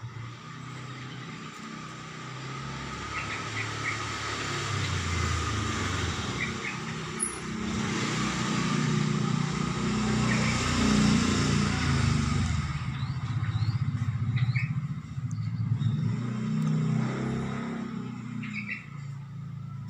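A motor vehicle engine running close by, growing louder to a peak about halfway through and fading toward the end. Short bird chirps sound over it now and then.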